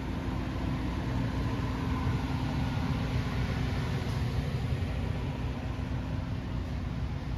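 Steady low engine rumble of a running vehicle, with a constant low hum.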